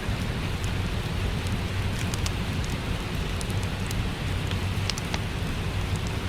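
Steady rain mixed with a crackling wood fire: an even rush with a low rumble beneath it and scattered sharp crackles throughout.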